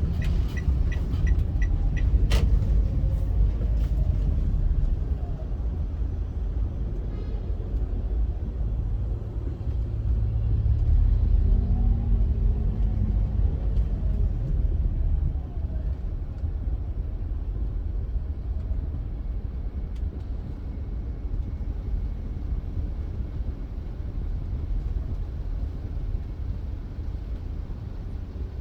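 Steady low rumble of a car driving on a highway, road and engine noise. A rapid even ticking plays in the first two seconds and ends with a sharp click.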